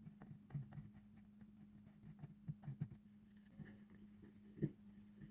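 Faint scratching and a few light taps of a marker working on a plastic pipe as a length is measured and marked on it, over a low steady hum.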